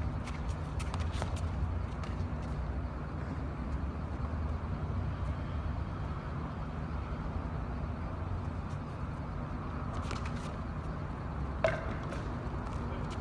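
Outdoor small-court street football ambience: a steady low hum with scattered light taps, and one sharp knock with a short ring near the end.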